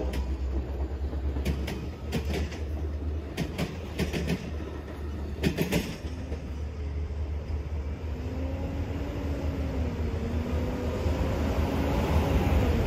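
Passenger-style cars at the rear of a track geometry train rolling past, their wheels clicking sharply over rail joints several times in the first six seconds. A low steady rumble carries on after the last car has passed.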